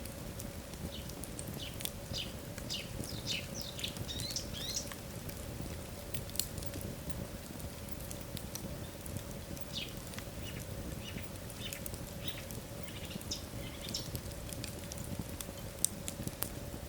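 Wood logs burning in a fireplace: irregular crackles and pops over a low rumble of flames, with a faint steady hum. Two bursts of short, high, falling squeaky chirps come in, one near the start and one past the middle.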